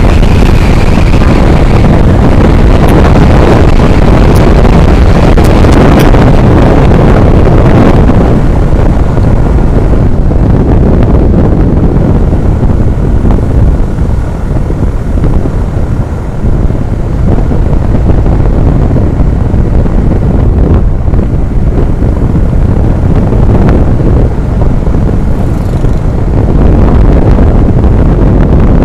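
Heavy wind buffeting an action camera's microphone on a moving truck, with road and engine rumble underneath. It eases a little around halfway and builds again near the end.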